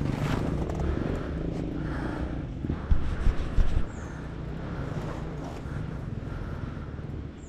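Honda CRF dirt bike engine running on a trail, with a few loud knocks about three seconds in.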